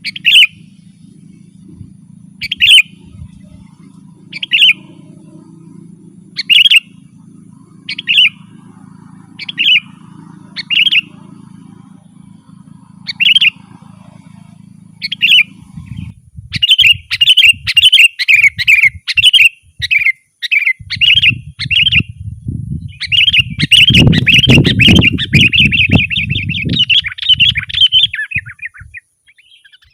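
Sooty-headed bulbul calling: short single calls every couple of seconds, breaking about halfway in into a rapid, continuous run of chattering song. A steady low hum sits under the first half, and a low rumble joins the song in the later part.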